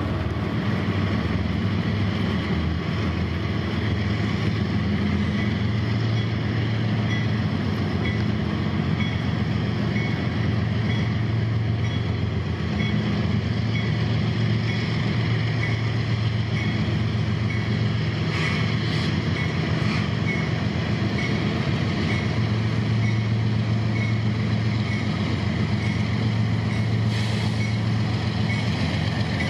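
Diesel freight locomotive's engine running steadily as it approaches, with a railroad grade-crossing bell ringing at an even pace.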